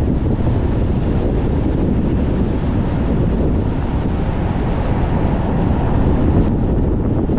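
Strong, gusty wind rumbling against the microphone of a moving car, a steady low buffeting with road noise underneath and no break.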